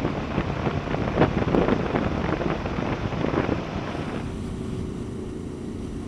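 Wind rushing and buffeting over the microphone of a moving Honda VFR800 V4 motorcycle. About four seconds in, the wind noise drops and a faint steady engine hum is left.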